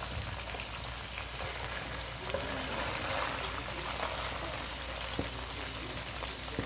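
Pork ribs frying in a pan: a steady sizzle with a few small pops.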